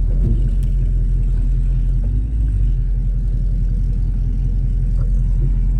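Chevrolet Camaro SS's 6.2-litre V8 running with a steady low rumble while the car drives, freshly fitted with new spark plugs and wires and sounding healthy.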